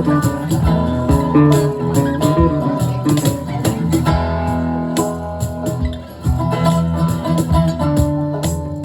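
Live band playing an instrumental passage: guitars over bass with drums keeping a steady beat, with a short drop in loudness about six seconds in.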